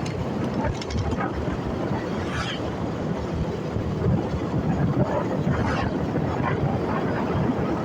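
Motorcycle riding: steady wind and road noise with the engine running, a continuous low rumble.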